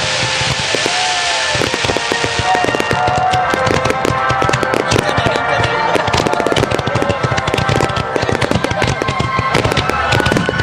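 Fireworks finale barrage: a dense, continuous run of rapid bangs and crackling from many shells bursting at once.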